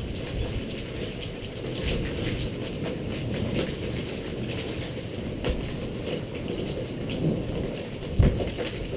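Rain ticking irregularly on a GoPro camera during a thunderstorm, over a steady muffled low rumble, with one sharp thump about eight seconds in.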